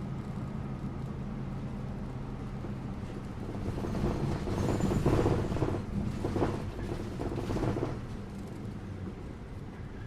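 City bus ride heard from inside: the engine's steady low hum with road rumble, swelling into a louder rush of engine and road noise for a few seconds midway, then settling back.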